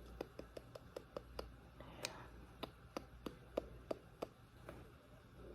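A quick run of light, sharp taps, about fifteen in all at roughly three a second, with a brief pause about a second and a half in.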